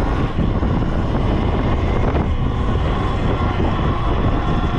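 Pit bike engine running while riding, at a fairly steady pitch, with wind buffeting the microphone.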